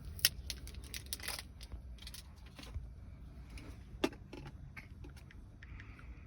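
Small handling sounds: a run of light clicks, rattles and rustles, with a sharp click about a quarter second in and another about four seconds in, over a steady low rumble.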